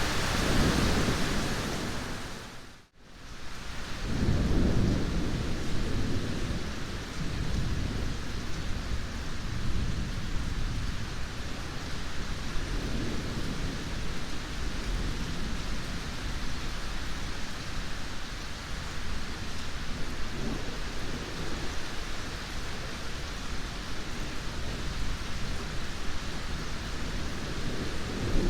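Steady heavy rain with low rolling thunder rumbles. About three seconds in the sound drops away to near silence for a moment, then comes back with a swell of thunder.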